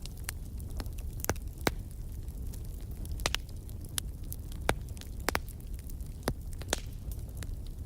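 Wood fire crackling in a fireplace: sharp, irregular pops and snaps over a steady low rumble of the flames.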